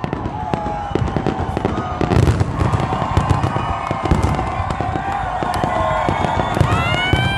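Fireworks finale: a rapid, overlapping barrage of bangs, deep thuds and crackles from aerial shells, with a rising whistle coming in near the end.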